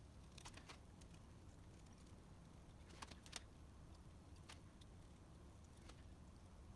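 Near silence with a low steady hum and a few faint, scattered clicks and taps, about three seconds in the loudest, typical of small metal parts being handled on a bench.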